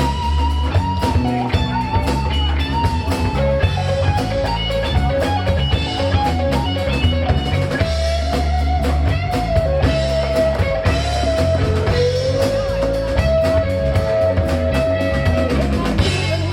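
Rock band playing an instrumental passage: drum kit, bass and guitar keeping a steady groove under a lead line of long held notes that slide between pitches.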